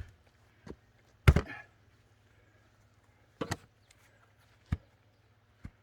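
Axe striking a thick firewood log that has not yet split: a series of sharp wooden knocks spaced a second or more apart, the loudest a little over a second in.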